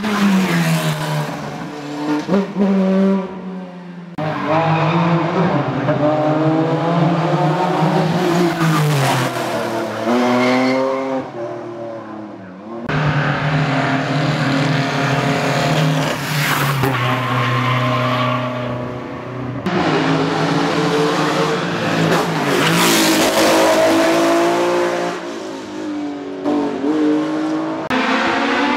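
Classic racing car engines revving hard, pitch climbing through each gear and dropping at the shifts, in several short passages that change suddenly from one to the next.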